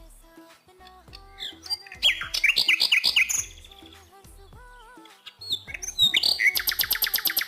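Bird chirping in two rapid runs of high, quickly repeated notes, about two seconds in and again from about six seconds in, over quiet background music with low repeating bass notes.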